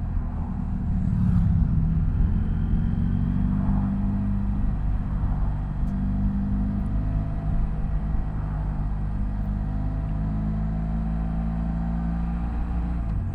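BMW F800GS's 798 cc parallel-twin engine running steadily under a low rumble, its pitch shifting slightly now and then.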